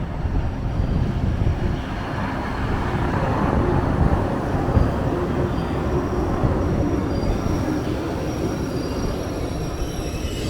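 Train running on its rails: a loud steady rumble, with faint high-pitched wheel squeal in the second half.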